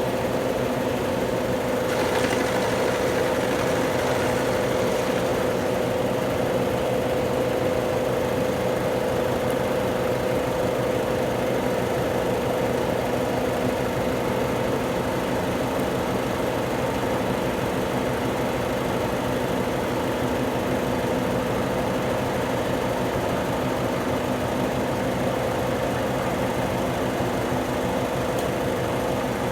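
Consul Supercargo 8 kg (CWL08C) top-loading washing machine in its long spin cycle: the drum spinning at speed with a steady motor hum and an even whine. The tub is vibrating but staying level.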